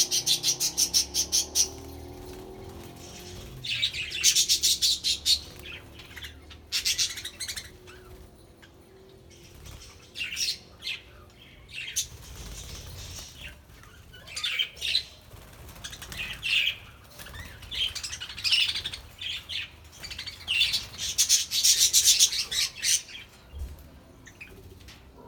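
A flock of budgerigars chirping and chattering in bursts of rapid, high calls, with quieter gaps between bursts.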